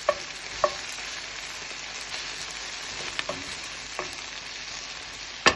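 Cubed chicken and chopped garlic frying in oil in a skillet, with a steady sizzle. A utensil clicks against the pan now and then, louder just before the end.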